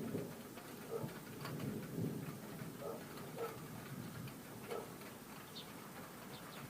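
Scattered raindrops tapping irregularly on a hard surface close to the microphone, about ten separate taps, over a faint low rumble.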